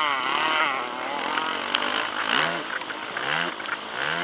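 Motocross bike engine revving up and down as the throttle is worked, its pitch rising again and again, about once a second in the second half.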